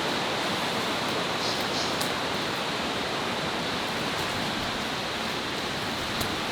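Steady rushing of nearby falling water from a jungle waterfall or stream, an even noise without a break, with a few faint ticks.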